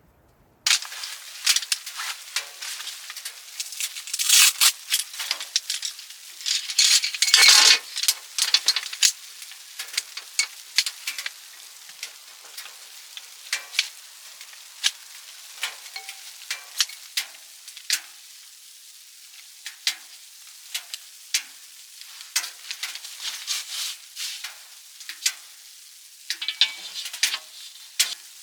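Food sizzling in a hot pan, a steady hiss with frequent sharp spitting pops, busiest over the first several seconds before settling to a lighter sizzle.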